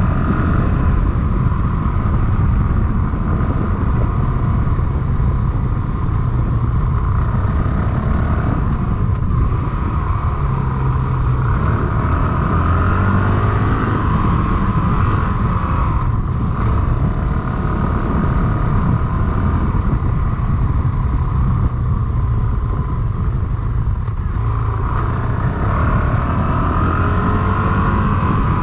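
Honda CRF450RL dirt bike's single-cylinder four-stroke engine running while ridden, its note rising and falling with the throttle.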